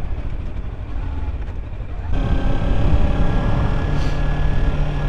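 Kawasaki Ninja 300's parallel-twin engine running under way, with wind rumbling on the microphone. About two seconds in, the engine note jumps up louder and stays there, as the bike is pulled harder.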